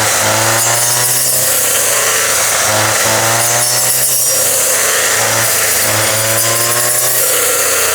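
Small motor-driven rice threshing machine running, its pitch sagging and recovering every second or so as it takes load.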